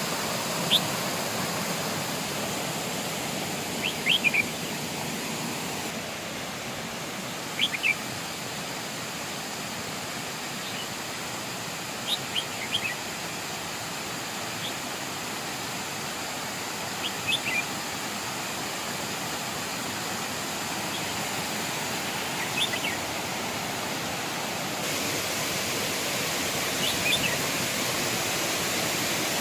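Waterfall rushing steadily, with a small bird giving short, high chirps about every four to five seconds.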